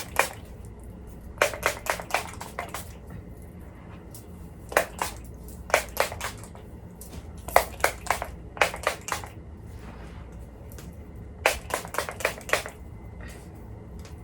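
Heat protectant spray bottle being pumped in quick runs of short hissing sprays, several sprays per run, with pauses between runs as it is applied over the hair.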